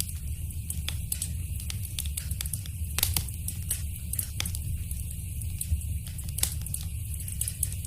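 Fireplace wood fire crackling, with a steady low rumble and a run of sharp snaps. The strongest pops come about three seconds in and again past six seconds.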